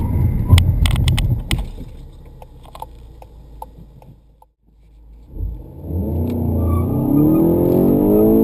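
Inside the cabin of a 2014 Volkswagen Golf GTI Mk7 braking hard to a stop: road and tyre rumble fades away, with a few sharp clicks. After a brief gap, its 2.0-litre turbocharged four-cylinder pulls hard from a standstill in first gear, its note rising steadily as the revs climb.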